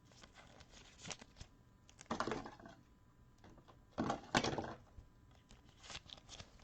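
Trading cards being handled at a table: short, faint rustles and scrapes with small clicks, the loudest about two seconds and four seconds in.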